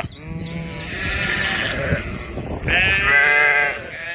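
Sheep bleating: one long, wavering bleat, then a second, louder bleat about two and a half seconds in.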